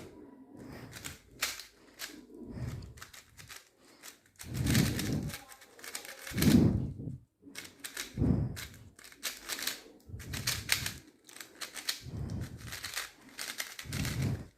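QiYi XMD Tornado V3 3x3 speed cube being turned fast during a solve: rapid, irregular plastic clicking and clacking of the turning layers, in bursts with short pauses.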